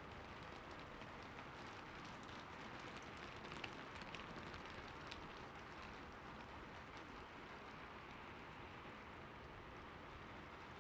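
Steady rainfall: a soft, even hiss with scattered individual drop ticks, and a few louder drops a few seconds in.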